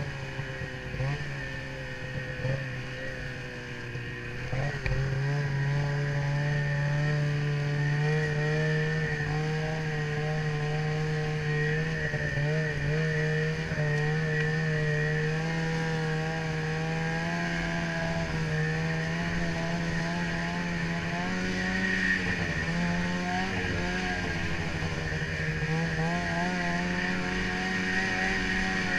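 Ski-Doo snowmobile engine running at steady trail speed; the engine note picks up and gets louder about four to five seconds in, then holds with small wavers.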